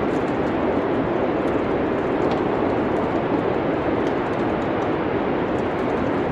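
Steady rushing wind noise of a snowstorm, with faint scattered crackles from a wood fire.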